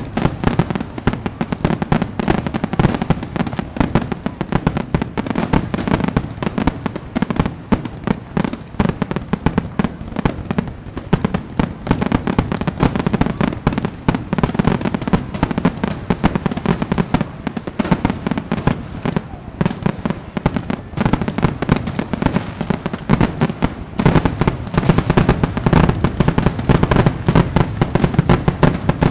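Fireworks going off in a dense, continuous barrage of rapid bangs and crackles, getting louder and denser about 24 seconds in.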